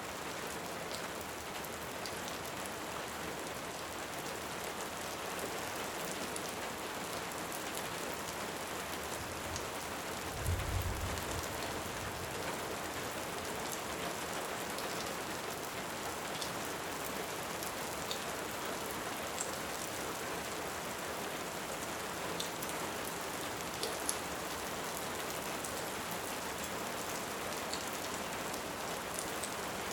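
Steady rain, with faint scattered crackles from a fireplace. About ten seconds in there is a short, low rumble of distant thunder.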